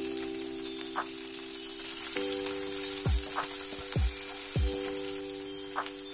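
Onion slices and cumin seeds sizzling in hot oil in a kadai, stirred with a spatula, under background music with a steady beat.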